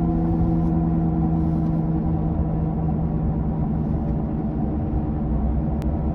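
Badly worn left-front wheel bearing of a 2007 Toyota Camry growling at road speed, heard from inside the car: a steady, loud droning hum of several pitched tones over the rumble of the road and tyres.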